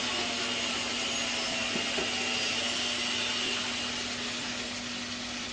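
Pieces of catfish in a spicy sauce sizzling and bubbling steadily in a wok, with a steady low hum underneath.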